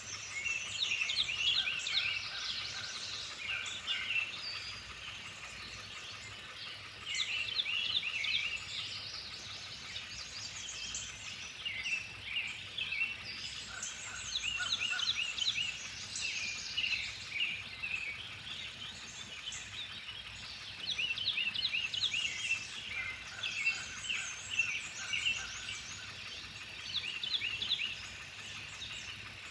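Songbirds singing: phrases of quick, high chirps and trills that come and go every few seconds over a faint steady hiss of the outdoors.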